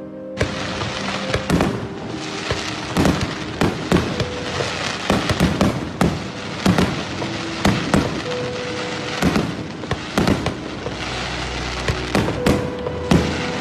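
Aerial fireworks bursting one after another, a long run of sharp bangs and crackles about one or two a second, with soft background music held underneath.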